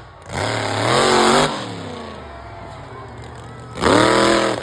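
Monster truck engine revving hard twice, once soon after the start and again near the end, idling lower in between.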